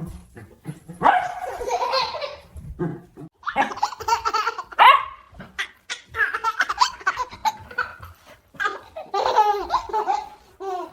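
A baby laughing in several separate bursts, with a puppy barking among them.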